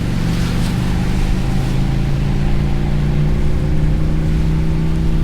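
Motorcycle engine and exhaust at a steady cruise, one even note that rises slightly in pitch in the second half, with a short rush of hiss about half a second in.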